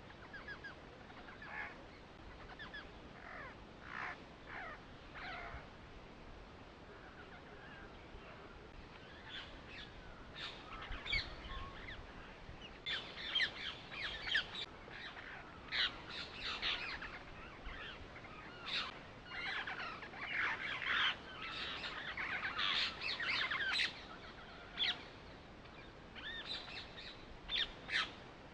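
Birds chirping: many short calls, a few at first and growing busy from about ten seconds in.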